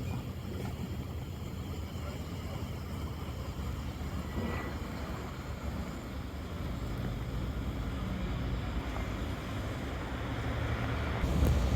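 A motor engine running with a steady low hum, growing louder near the end.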